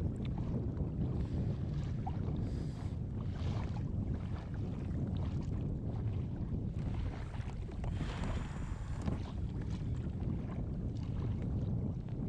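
Wind rumbling on the microphone on an open kayak, with water washing against the hull now and then.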